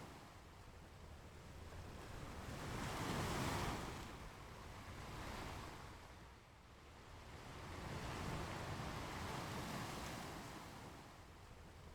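Ocean surf washing onto a beach, swelling and fading in about three slow surges, the loudest about three and a half seconds in.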